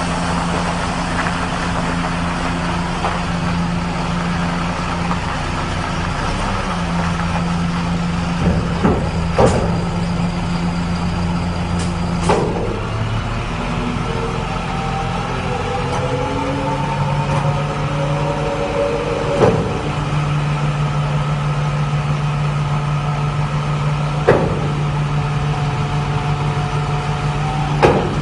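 Truck engine running steadily, with several sharp clanks and a slowly rising whine about halfway through.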